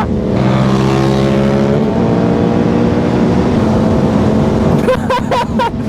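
Sportbike engine with its exhaust baffle removed, pulling with a rising pitch, then dropping in pitch as it shifts up just under two seconds in and running at a steady pitch after.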